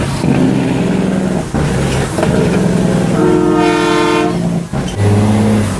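A truck's air horn sounds one chord blast of a little over a second in the middle, over diesel truck engines running.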